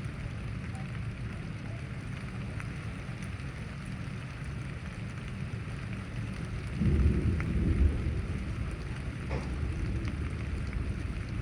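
Steady rain hissing, with a loud low rumble of thunder coming in about seven seconds in, swelling twice and then slowly dying away.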